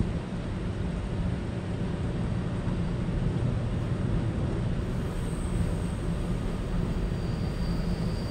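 Steady running noise inside a Taiwan Railway EMU900 electric commuter train carriage under way: a low rumble, with a faint high whine that comes in about seven seconds in.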